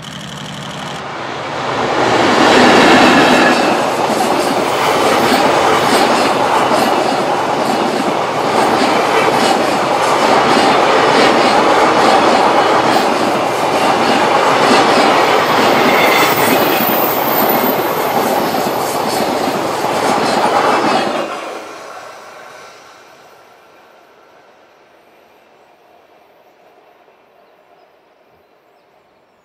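JR Freight EH500 electric locomotive and its long container freight train passing close by. The sound swells sharply as the locomotive arrives about two seconds in, then the wagons keep up a loud, steady rattle and clickety-clack of wheels over the rails for about twenty seconds, cutting off fairly quickly as the last wagon goes by and fading away.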